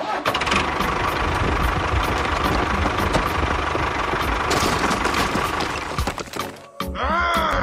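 Small motor of a DIY model construction vehicle running steadily with a rattling hum. About seven seconds in it cuts off, and a pitched sound that bends up and down takes over.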